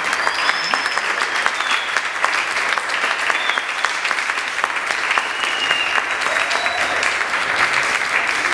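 Audience applauding steadily, dense clapping with a few brief high whistles above it.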